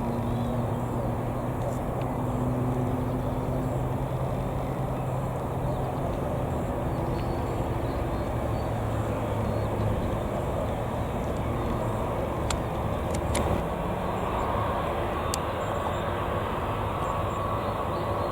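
Jet airliner engine noise: a steady rumble with low humming tones that holds without clear rise or fall.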